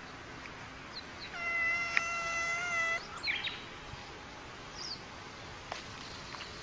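Cat yowling once, a long steady call of about a second and a half, followed by a few short high squeaks.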